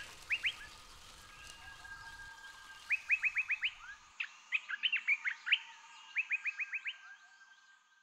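Bird calls: runs of five or six short, quickly rising chirps repeated several times, over a faint steady high tone, fading out near the end.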